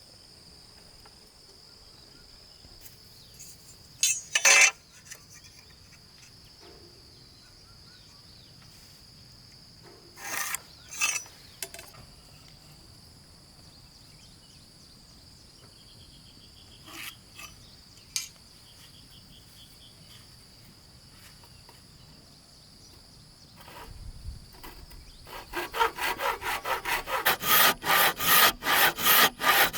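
Handsaw cutting wood in quick, even strokes, about four a second, starting near the end, after a few scattered knocks and scrapes of wood. A steady high insect buzz runs behind.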